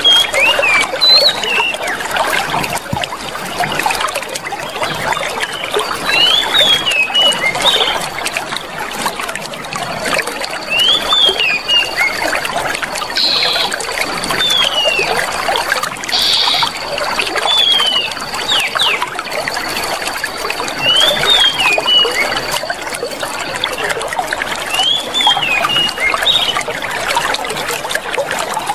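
Clear running water trickling and splashing steadily, with small birds chirping over it in short sweeping notes that come in clusters every few seconds. A thin, steady high tone sounds through the middle stretch.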